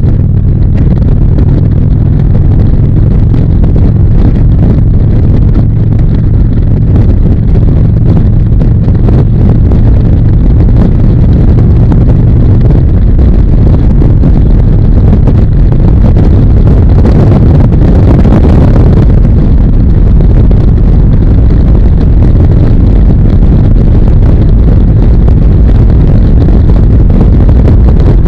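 Harley-Davidson V-twin motorcycle engine running at a steady road speed, heavy wind rushing over the microphone. There is a brief louder rush of noise about two-thirds of the way through.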